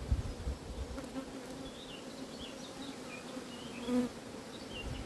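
Honey bees buzzing around an open hive during a frame inspection, a steady hum, swelling louder about four seconds in as a bee passes close.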